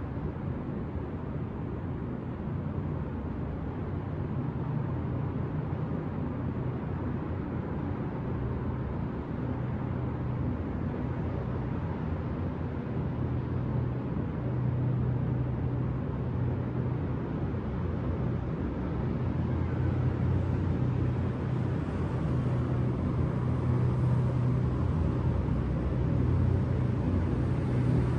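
Steady city traffic hum, a low rumble of distant vehicles, growing gradually louder over the last third.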